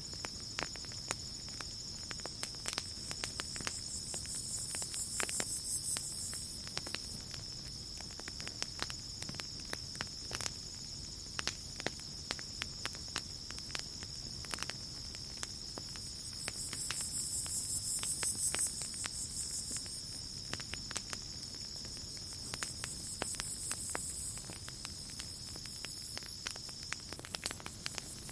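Campfire crackling with scattered sharp pops over a steady chorus of crickets. A second, higher insect trill swells in and fades three times, and the steady cricket chorus stops shortly before the end.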